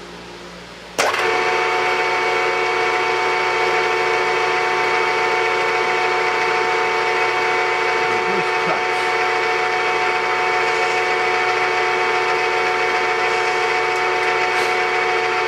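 The spindle motor and gear train of a 3-in-1 lathe-mill switch on suddenly about a second in and run at a steady speed. They give a steady whine made of several fixed tones.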